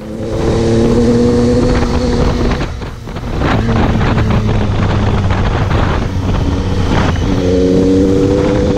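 Triumph Tiger 800 XCx's three-cylinder engine running under load on a dirt road, with wind noise on the microphone. The engine note eases off briefly about three seconds in, runs lower through the middle, then climbs back up near the end.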